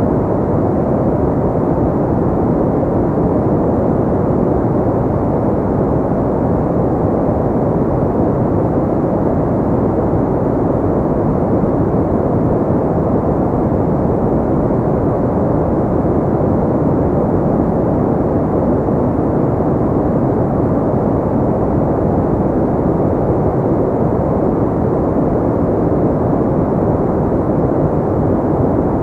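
Continuous ambient noise track for sleep, played as a steady, even rushing with no treble, deep rather than hissy, closer to brown noise than true white noise. It never changes in level and has no rhythm or separate events.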